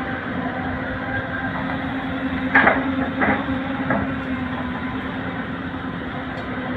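Heavy diesel engine of earthmoving machinery running steadily while an excavator loads soil into a dump truck. Three sharp knocks come about two and a half, three and four seconds in, the first the loudest.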